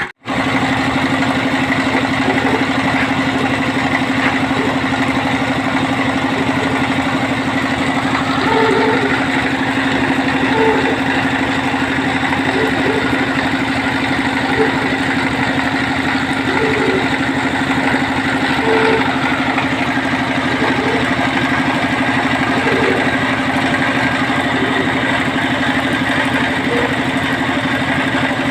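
Engine of a water-well drilling machine running steadily at constant speed.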